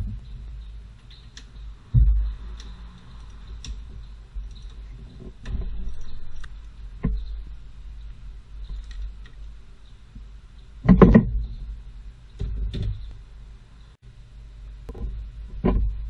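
Scattered clicks and knocks of metal tools and parts being handled, with a cluster of louder knocks about eleven seconds in.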